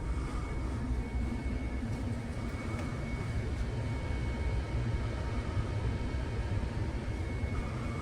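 Steady low mechanical rumble of a running vehicle, with a faint, steady high-pitched whine over it.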